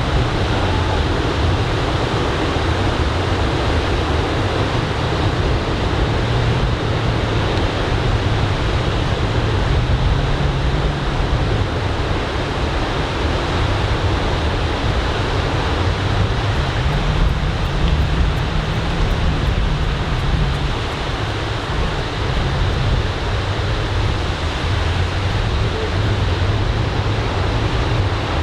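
Ocean surf washing steadily onto the beach under typhoon swell, with wind rumbling on the microphone.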